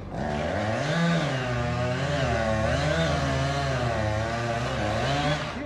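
An engine running under load, its pitch rising and falling about once a second.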